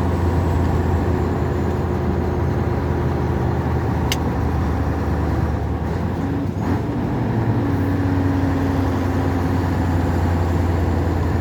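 Scania 143's 14-litre V8 diesel pulling steadily uphill in eighth gear at about 1,400 rpm, a deep, even drone heard from inside the cab. A brief click about four seconds in.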